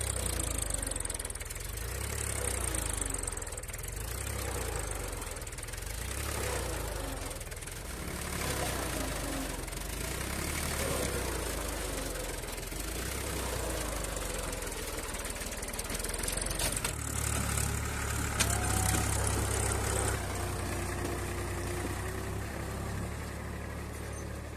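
Powertrac 439 tractor's diesel engine running steadily with a deep, low rumble. Its note shifts about two-thirds of the way through.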